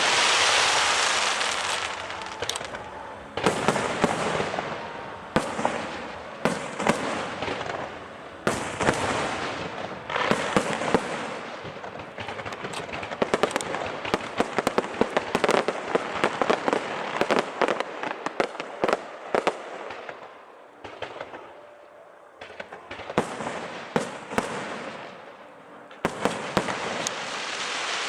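Aerial fireworks show: shells bursting over and over with dense crackling between them. Louder bursts come about three, five, nine and ten seconds in and again near the end, with a quieter spell about two-thirds of the way through.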